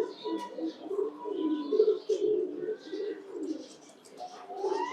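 Several domestic fancy pigeons cooing at once, many low wavering coos overlapping, with a few faint higher chirps among them.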